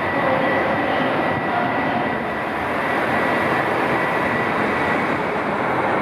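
Steady running noise heard from inside a moving vehicle, with a faint steady high whine over an even rumble.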